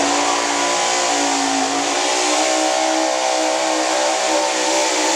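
A hot gas 4x4 pulling truck's gasoline engine running at high revs under load during a pull. Its pitch holds high with small wavering dips.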